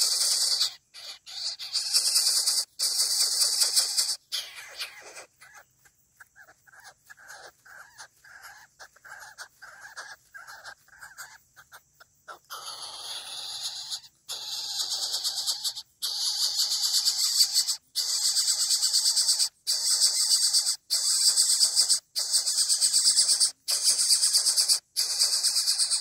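Coucal chick hissing harshly as it begs for food, in long rasping bouts broken by brief gaps. The hissing quietens for several seconds in the middle, then returns loud about halfway through.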